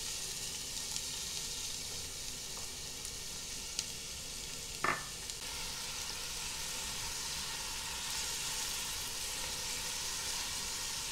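Chopped onion and garlic sizzling steadily in hot olive oil while a spatula stirs them around the pot, with one brief tap about five seconds in.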